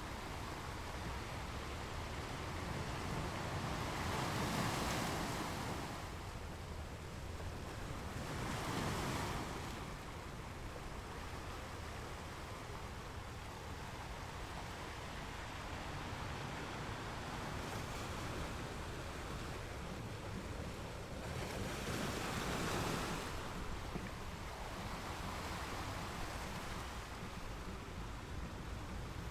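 Ocean surf: a steady rush of waves, with a wave surging in and breaking about four seconds in, again near nine seconds, and once more past the twenty-second mark.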